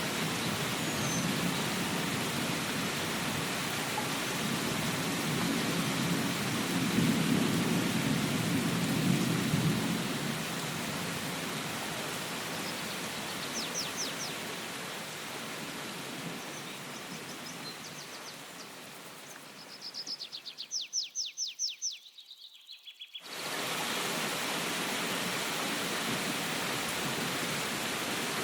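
Steady heavy rain with a low rumble of thunder that swells and rolls away over several seconds. Near the end the rain fades and a rapid, high chirping trill is heard for about two seconds before a short silence, then the rain comes back suddenly.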